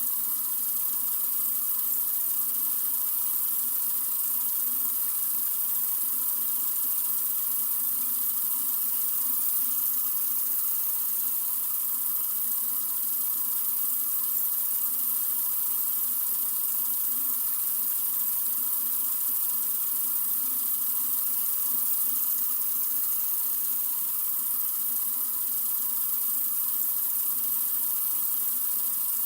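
Tap water running steadily from a sink faucet: an even, hissy stream that doesn't change.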